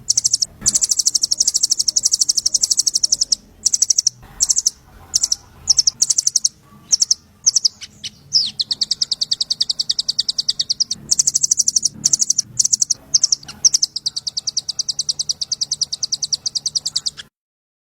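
Small songbird singing rapid runs of high, sharp chirps, many a second, broken by brief pauses and cut off suddenly near the end.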